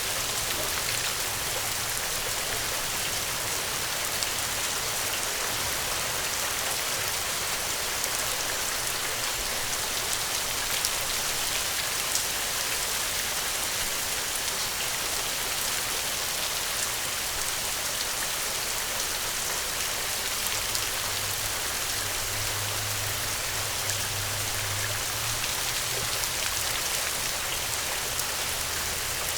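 Steady rainfall, a constant hiss with fine drop patter on surfaces.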